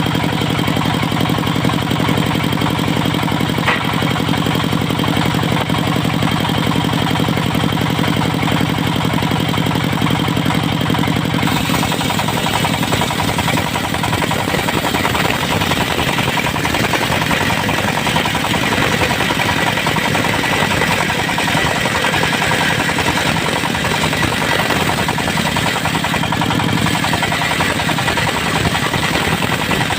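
Diesel-driven portable circular sawmill running steadily. About eleven seconds in, the sound turns harsher and hissier as the saw blade cuts through a teak log.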